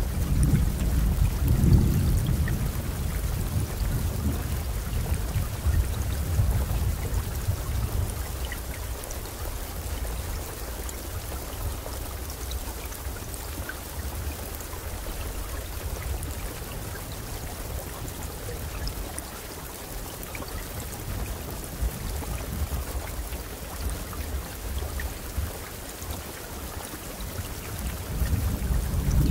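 Steady rainfall, with a low rumble of thunder in the first few seconds that fades away and another rumble building near the end.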